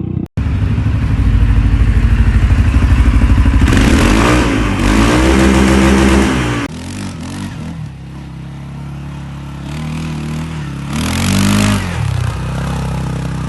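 Off-road vehicle engine running under load, revving up and back down twice with a quieter stretch between, over a rushing hiss.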